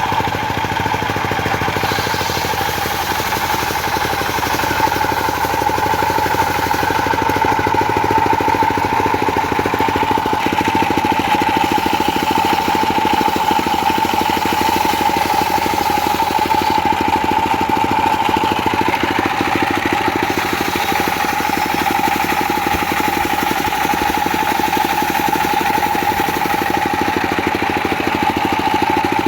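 Diesel-engine-driven circular sawmill running steadily. A strong, steady high tone sits over the engine's fast, even beat, with no pauses.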